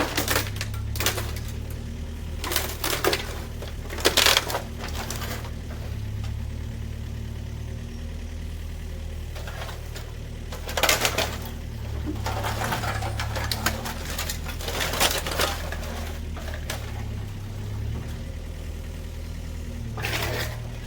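An engine running steadily, with a series of sharp clanks and knocks over it.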